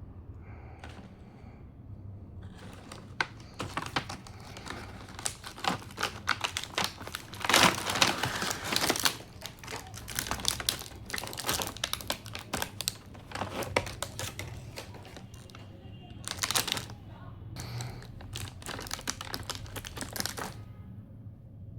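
Toy packaging being handled and opened: a dense run of crinkling and clicking that starts a couple of seconds in and stops shortly before the end, loudest about a third of the way through.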